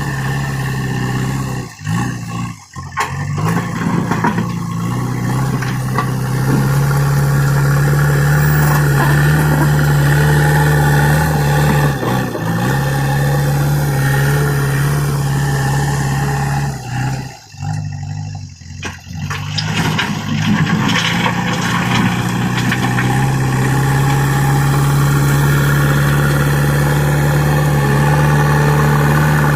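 JCB backhoe loader's diesel engine running steadily, with a low hum. It dips sharply twice, briefly about two seconds in and for a second or two past the middle, then comes back to the same steady note.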